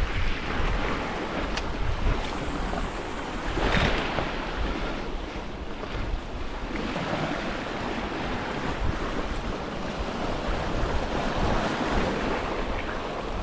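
Sea surf washing against a rocky shore in slow surges, with wind buffeting the microphone.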